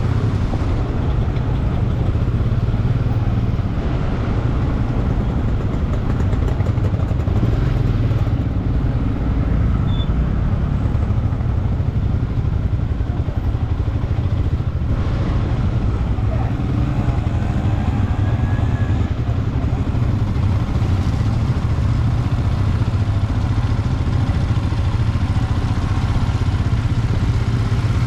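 Royal Enfield Himalayan 411 cc single-cylinder engine running steadily under way, at an even speed with no big revs.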